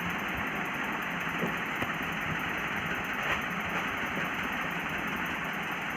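Steady engine-like running noise, even in level throughout.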